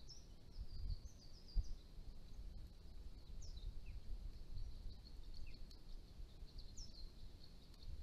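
Small birds calling: scattered short high chirps and a few quick downward-sweeping notes, over a low rumble of outdoor background noise with a brief low thump about one and a half seconds in.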